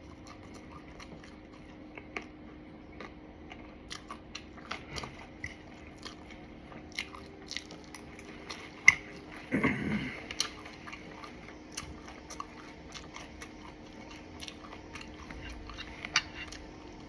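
A person chewing and biting crunchy fried food, with scattered crisp crunches and mouth clicks, the sharpest about nine seconds in. A short closed-mouth hum comes just before ten seconds.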